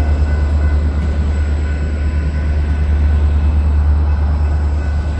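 Freight train's diesel locomotive running: a loud, steady low rumble.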